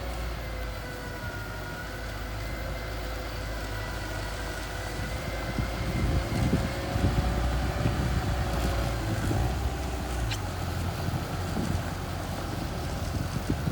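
Small bulldozer's engine running steadily under load, with a faint wavering whine over a low rumble. Wind buffets the microphone from about six seconds in.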